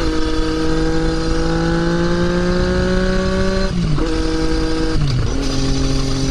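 2020 Yamaha MT-09's inline three-cylinder engine through an Akrapovič exhaust, pulling under throttle with the pitch climbing slowly. It then drops sharply twice, at gear changes, about 3.7 s and 5 s in.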